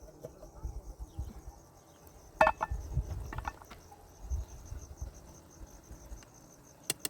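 Crickets chirping steadily and high, with a sharp knock about two and a half seconds in, a few lighter knocks just after it and a couple of clicks near the end.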